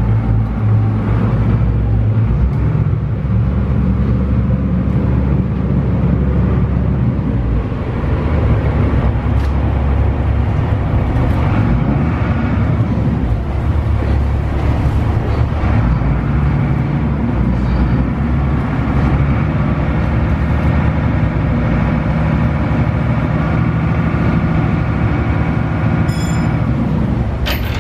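Small passenger ferry's diesel engine running with a steady low drone, heard aboard, its note shifting slightly about halfway through. A short sharp click comes near the end.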